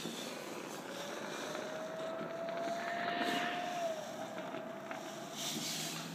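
A distant motor vehicle engine accelerating, its tone rising slowly, then dropping a little before the four-second mark, over a steady background hum.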